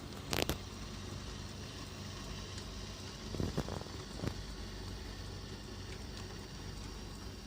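HO-scale brass four-truck Shay model locomotive running, its motor and gearing giving a steady low hum. A few sharp clicks come about half a second in and again around the middle.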